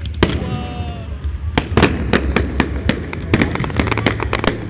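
Fireworks going off: a single sharp bang, then from about a second and a half in a rapid string of sharp bangs and pops, several a second.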